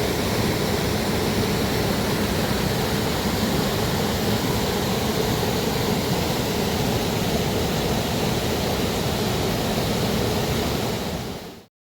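Mountain stream rushing steadily over rocks, an even loud wash of water noise that fades out and stops abruptly just before the end.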